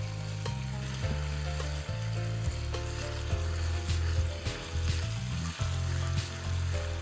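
Food sizzling and crackling as it fries in a pan, under background music with a bass line and melody notes that change about twice a second.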